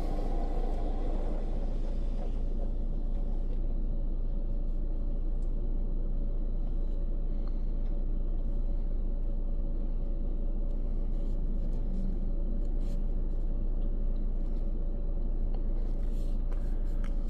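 Istobal FLEX5 touchless car wash running its pre-soak stage, heard from inside the car's cabin: a steady low rumble under the hiss of spray on the car, the hiss fading about two seconds in.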